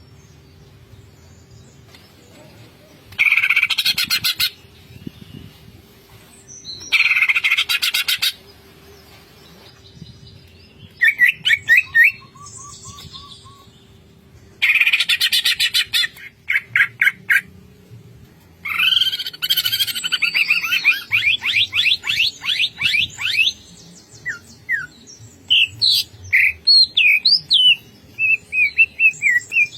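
Cucak ijo (green leafbird) singing in repeated bursts of fast, rattling chatter, about five of them, then a run of clear whistled notes that rise and fall near the end.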